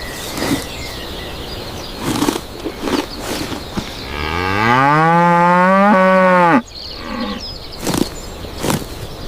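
A cow mooing once: a long call about halfway through that rises in pitch, holds, and then stops suddenly. It sits over steady background noise with a few scattered knocks.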